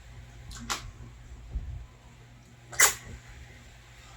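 Close-up eating sounds from a person's mouth: two short, sharp sucks or slurps, a smaller one under a second in and a louder one near three seconds in.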